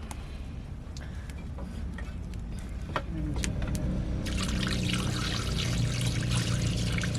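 Liquid pouring, with a steady trickling hiss that starts about four seconds in, after a few light clicks and a knock about three seconds in. A low steady rumble runs underneath.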